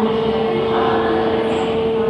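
Ocean Express funicular train running: a steady hum with a constant tone over a rumble.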